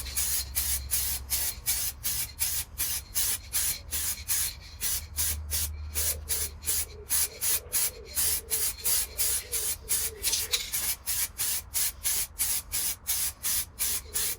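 Aerosol spray can of clear lacquer hissing as a light coat is sprayed onto a wheel, the hiss pulsing evenly about four times a second.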